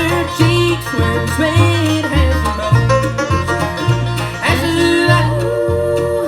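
Acoustic string-band music in a bluegrass style, with a steady alternating bass line under plucked strings and a man singing.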